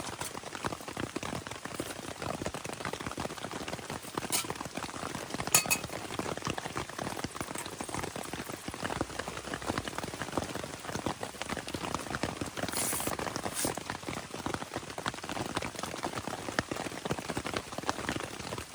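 Steady hard rain pattering on a tarp shelter, a dense crackle of drops, with a few sharper taps about four and five and a half seconds in and again near thirteen seconds.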